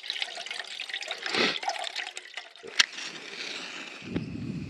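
Water trickling and splashing, with many small crackles and one sharp click about three seconds in; a steady low rumble takes over near the end.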